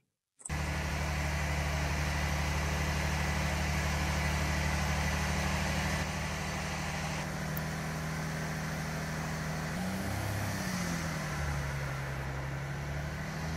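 Range Rover Sport Hybrid's V6 diesel engine idling steadily, heard from inside the cabin. About ten seconds in the idle speed dips briefly and then climbs back over a couple of seconds.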